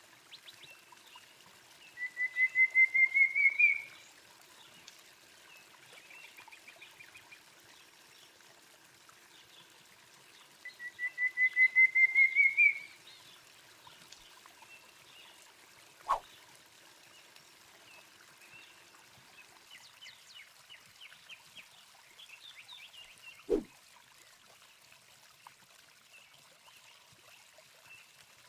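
A songbird singing two loud phrases about eight seconds apart, each a quick series of notes climbing slightly in pitch over about two seconds. Fainter chirps come in between, along with two sharp clicks.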